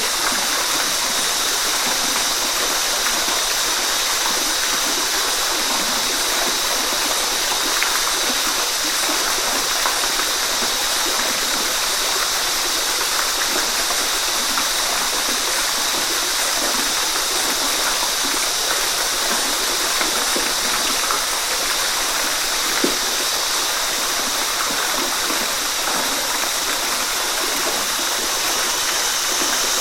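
Steady rush of a waterfall: falling and splashing water making an even hiss, strongest in the highs, unchanging throughout.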